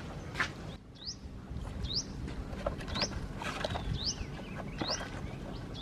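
A small bird repeating a short, high, rising chirp about once a second, with a few scattered knocks and rustles under a steady low background hum.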